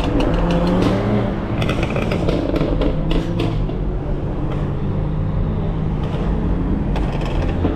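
Loud BMW exhaust under hard driving: the engine hums steadily while rapid strings of crackling pops come about one and a half to three and a half seconds in and again briefly near the end.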